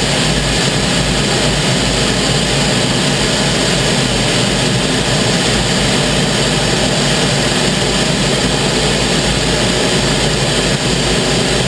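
Canadair CT-33 Silver Star jet trainer's Rolls-Royce Nene turbojet running loud and steady, a constant noise with no rise or fall in pitch.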